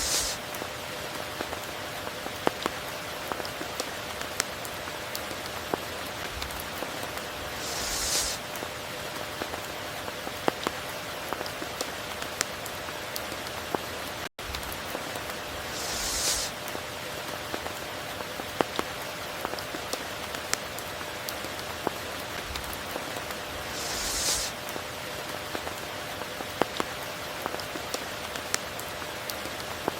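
Steady tropical rain, a dense even hiss dotted with the ticks of single drops. A brief high swish comes about every eight seconds, and the sound cuts out for an instant about halfway through.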